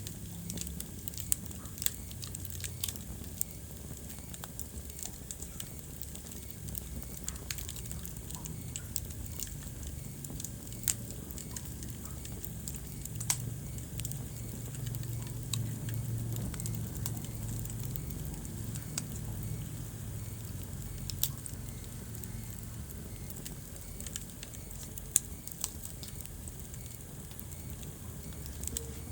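Wood fire burning in a fireplace: a steady low rumble of flame with frequent small crackles and a few louder pops scattered throughout.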